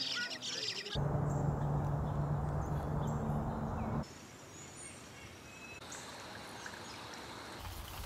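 Wild birds calling in a run of spliced field recordings: busy high chirping in the first second, then a cut to a low steady hum with rushing noise for about three seconds, then faint thin whistles.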